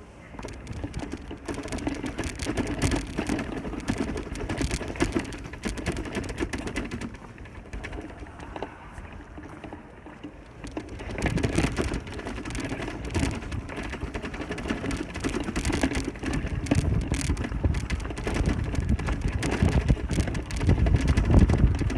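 Bicycle ride noise: the bike rattling with dense, irregular clicking over a rough road surface, under a low rumble of tyres and wind that grows louder about halfway through and again near the end.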